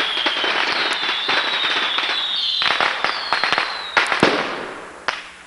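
Street fireworks going off: several high whistles one after another, each dropping a little in pitch, over continuous crackling and pops, with a loud bang about four seconds in before it dies down.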